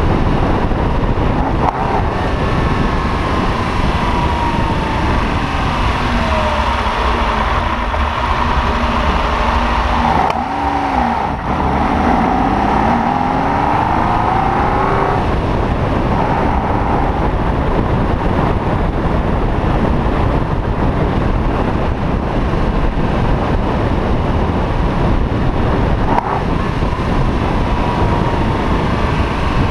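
Freshly rebuilt 3.0-litre Colombo V12 of a 1962 Ferrari 250 GT/E running as the car drives, over a steady rush of wind noise. Its pitch drops and then climbs again in the first half, as the car slows and picks up speed.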